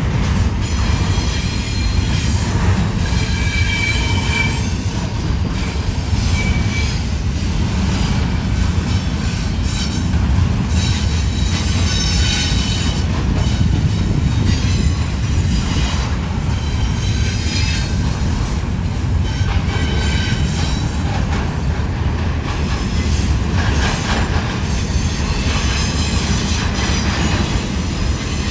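Double-stack intermodal container cars of a freight train rolling past: a steady low rumble of steel wheels on rail, with short high-pitched wheel squeals coming and going.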